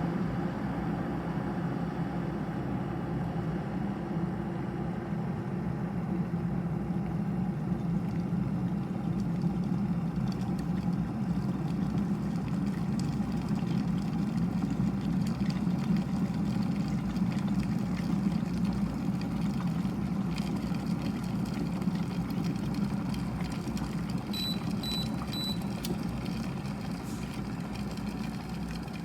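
ecosa 2200 W glass electric kettle heating water, a steady rumble of water coming toward the boil. About three-quarters of the way through it gives three short high beeps, the kind a temperature-select kettle sounds on reaching its set temperature.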